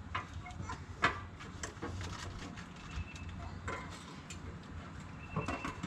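Scattered light clicks and knocks of small engine parts being handled as diesel fuel injectors are picked up and readied for fitting, over a steady low hum.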